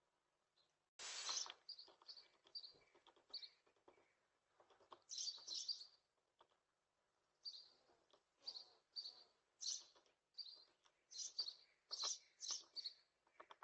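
Small birds chirping: many short, high chirps, some in quick runs, with a brief rustling burst of noise about a second in.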